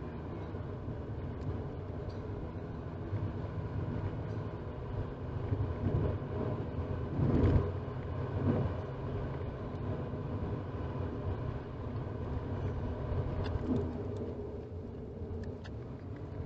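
Road and engine noise inside a moving 2018 Toyota RAV4 as picked up by a dash camera's microphone: a steady low rumble that swells briefly about seven to eight seconds in.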